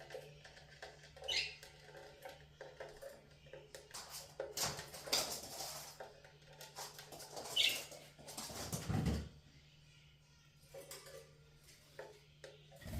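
Pet budgerigars making short high squeaky chirps, twice, with several brief bursts of rustling noise in between, as the birds bathe and play.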